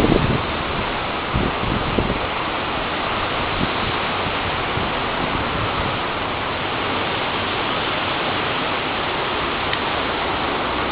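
Steady, unbroken rushing noise of a windstorm, with no gusts or impacts standing out.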